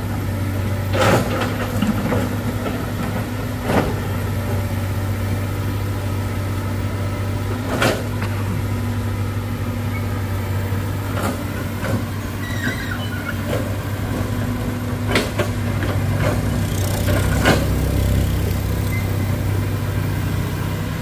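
Diesel excavator engine running steadily, with about five sharp knocks of the bucket tooth striking rock as it breaks up a rock face. The engine note deepens and grows louder for a few seconds about three-quarters of the way through, as it works under load.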